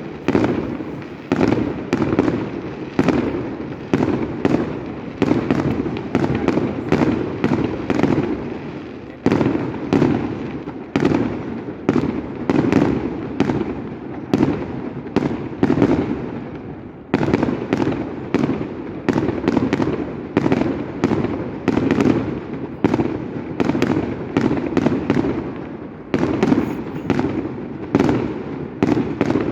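Aerial fireworks bursting in quick succession, about two to three loud bangs a second, each followed by a rumbling echo, with short lulls around a third and halfway through.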